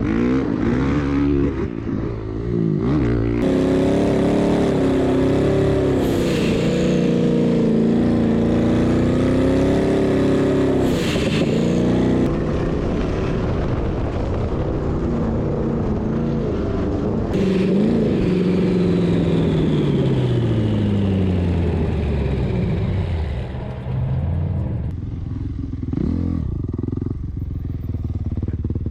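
Dirt bike engine running hard under changing throttle while riding in sand dunes, its note rising and falling. Near the end the pitch slides down and the engine eases off.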